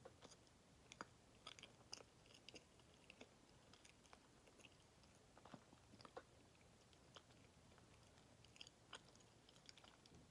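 Faint chewing of a soft Kamome no Tamago sweet, with small, irregular wet mouth clicks scattered throughout.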